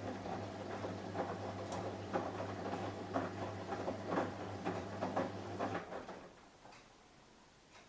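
Samsung Eco Bubble washing machine running a wash: a steady motor hum with the soft irregular thumps and swish of laundry and water tumbling in the drum. The hum and tumbling stop suddenly about six seconds in, as the drum pauses.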